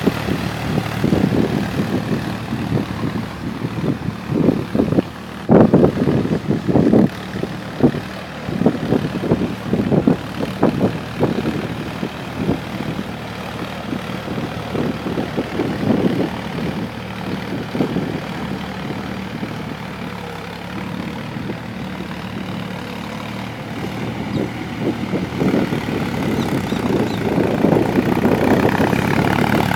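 Tractor engine running steadily. Over it come loud, irregular knocks and rattles through the first third, and again briefly later on.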